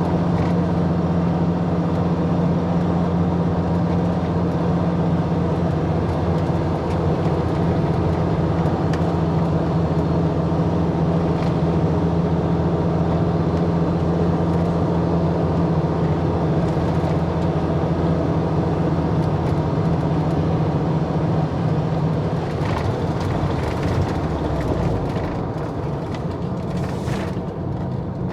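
Motor vehicle engine running at a steady speed, a constant drone that eases off and gets quieter over the last few seconds.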